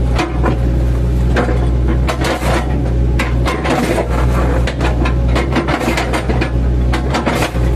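Mini excavator's diesel engine running steadily under load, with repeated irregular cracks and knocks as its bucket chops into felled oil palm trunks.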